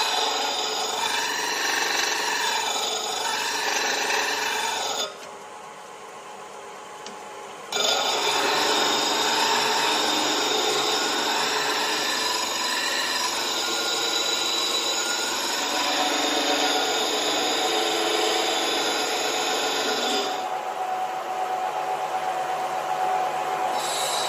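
Electric power tool running steadily while working steel, dropping away for about two and a half seconds about five seconds in before running again.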